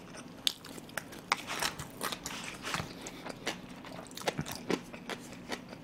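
Close-miked chewing of a mouthful of pork and rice soup: irregular wet mouth clicks and smacks, several a second.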